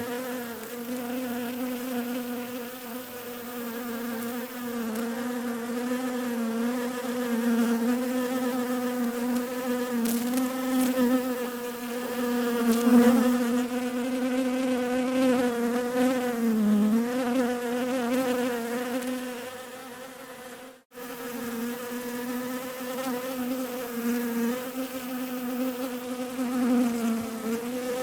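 Bees buzzing in a steady, pitched hum that wavers and dips slightly in pitch. It cuts out for an instant about three quarters of the way through, then resumes.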